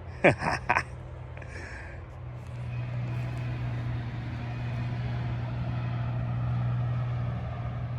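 An engine running steadily at an even pitch, getting somewhat louder about two and a half seconds in. Two brief sharp sounds come within the first second.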